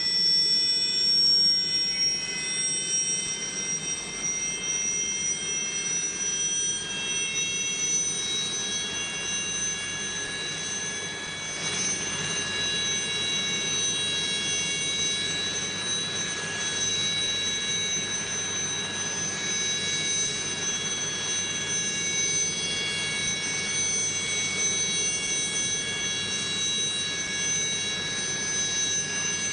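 Jet engine whine: several high held tones over a low rumble, steady in level, with the pitch stepping up slightly a few times.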